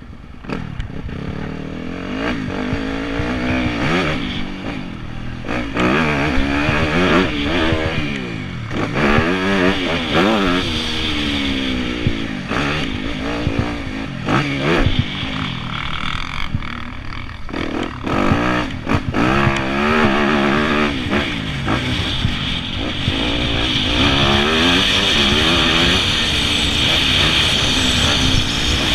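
Yamaha YZ250F four-stroke single-cylinder motocross engine, revving up and dropping back again and again as it is ridden hard around the track, running steadier and higher in the last few seconds.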